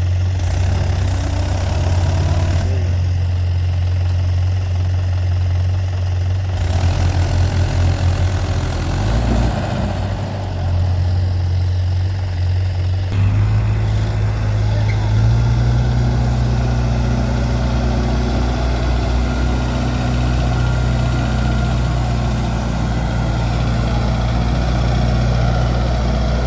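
Heavy diesel engine running steadily, with sudden changes in its sound about 3, 6 and 13 seconds in. From about 15 seconds on it runs at a higher, steady speed.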